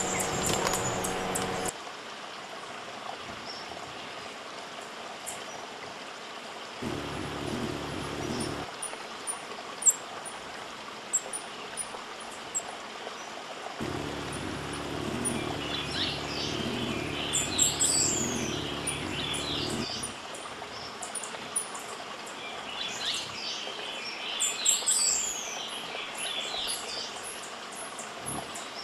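Wild birds chirping: scattered high-pitched chips and a few quick descending calls over a steady background hiss. A low hum comes in twice, and a louder sound with several held tones cuts off about two seconds in.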